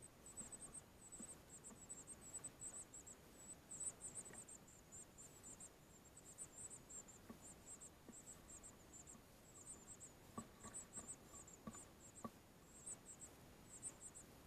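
Faint, high-pitched insect chirping in quick repeated clusters, with a few soft clicks near the end.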